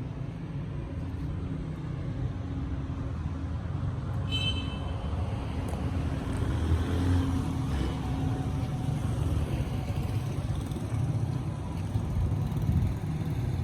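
A car engine running with a steady low rumble, most likely the Toyota Land Cruiser under review. About four seconds in there is a brief high-pitched tone.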